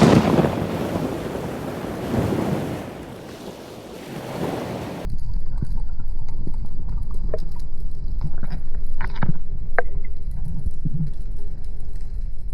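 Waves washing and wind buffeting the microphone at the sea surface, swelling and easing a few times. About five seconds in it cuts abruptly to a steady low rumble with scattered clicks and short pings.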